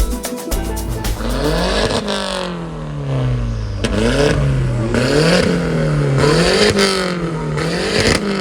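Car engine revved hard again and again: one long climb and drop, then quicker rev rises and falls about once a second. Music cuts out about a second in.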